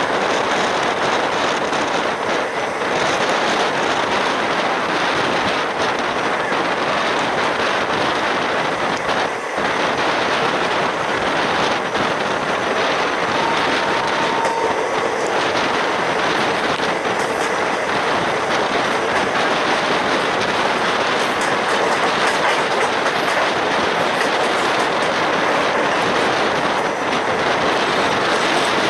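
Moving Indian Railways passenger coach heard from its open doorway: a steady loud rumble of the wheels on the rails with the odd clatter over joints.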